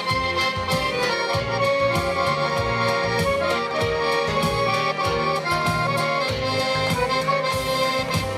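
Accordion playing an instrumental passage of a song between sung lines, with held chords over a bass line.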